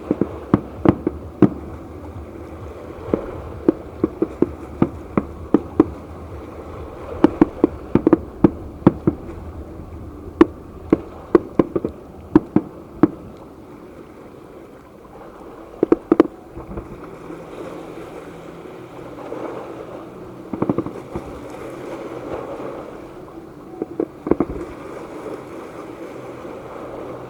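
Fireworks bursting: a quick, irregular run of sharp pops and bangs, several a second for the first half or so, then only a few scattered bangs.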